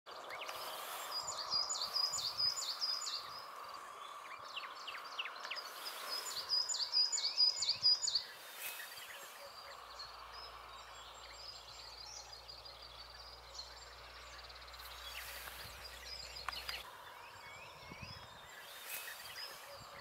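A small bird singing two phrases of quick, high repeated notes, one starting about a second and a half in and another around six seconds in, with fainter scattered calls afterwards over a steady forest hiss.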